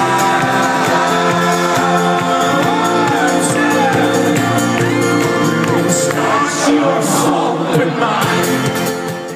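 Live folk-rock band holding sustained chords at a concert, with the crowd cheering and whooping over it. The sound cuts off abruptly at the end.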